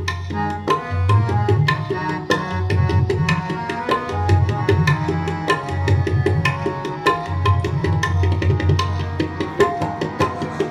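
Instrumental kirtan interlude: tabla playing a fast, dense pattern of strokes with swelling deep bayan notes, over held melody notes from a harmonium.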